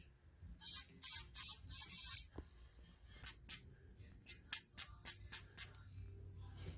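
Five short bursts of aerosol spray hissing, such as carburetor cleaner being sprayed, followed by a run of about eight sharp, light clicks.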